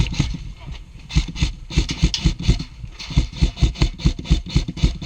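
Airsoft rifle firing a rapid string of shots, several a second, with a brief pause about a second in.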